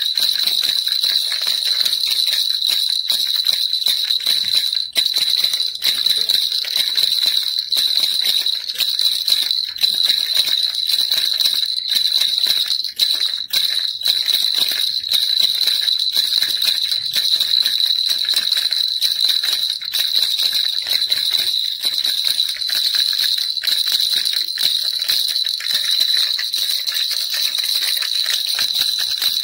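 Baby rattle shaken without pause: a dense run of rapid jingling clicks over a bright, high ring.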